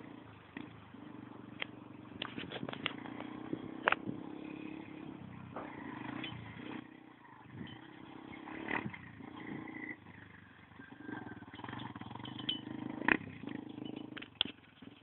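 Motocross motorcycle engine running with an uneven drone that dips and picks up again several times. Sharp clicks and knocks cut through it, the loudest about four seconds in and again near the end.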